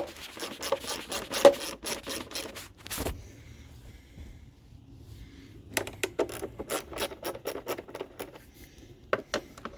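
Socket ratchet clicking in quick runs as screws are backed out of a small engine's cover: one run at the start, another after a short pause, and a few last clicks near the end.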